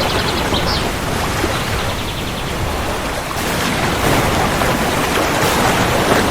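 Steady heavy rain, a continuous even hiss.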